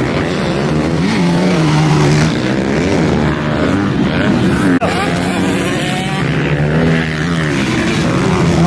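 Several motocross bikes' engines revving up and down at race pace, their pitches rising and falling over one another.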